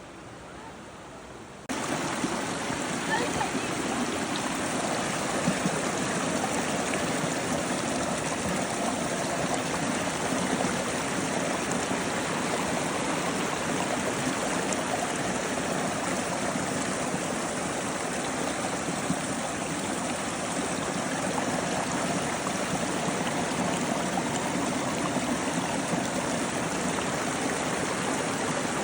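Stream water flowing steadily, a continuous rushing noise that cuts in abruptly about two seconds in.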